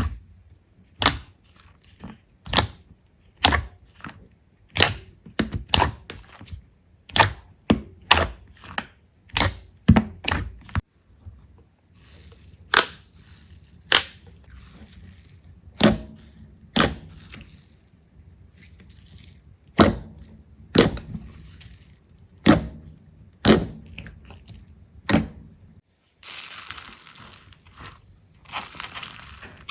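Slime being squeezed and poked, giving a run of sharp pops and clicks, quick at first and then more spaced out. Near the end it turns to a dense crinkling crunch.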